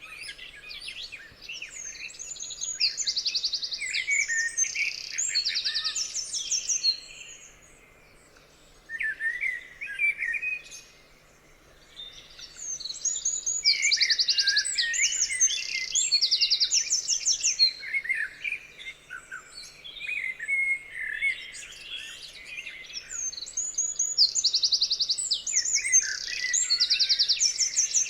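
Songbirds singing: overlapping chirps and quick, high, buzzy trills, with two short lulls about a third of the way in.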